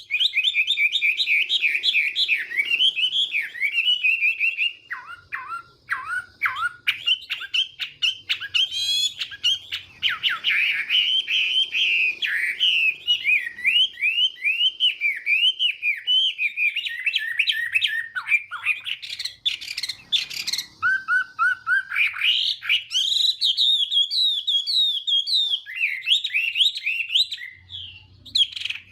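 Chinese hwamei singing a long, loud, fast-changing song of rising and falling whistled phrases, with a few brief breaks.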